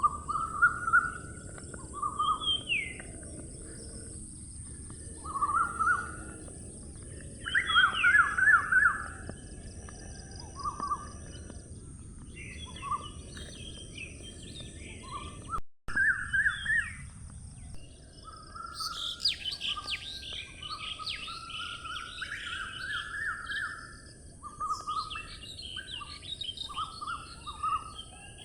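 Morning birdsong: several birds singing in short repeated chirping phrases, busier in the second half, over a steady low background rumble and a steady high hiss. The sound cuts out for an instant about halfway through.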